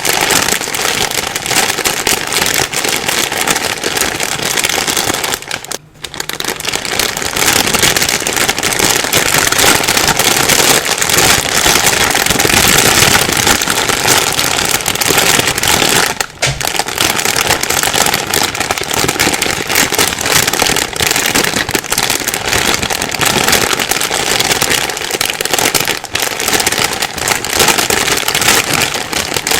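A plastic bag being rustled and crumpled continuously, a dense crackling, with two brief pauses, one about six seconds in and one about sixteen seconds in.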